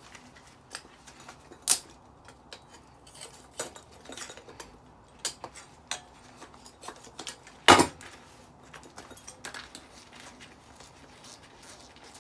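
Small metal parts and hand tools clinking and clattering as a decking light is handled and taken apart, with two louder metal clanks, one about two seconds in and one near eight seconds.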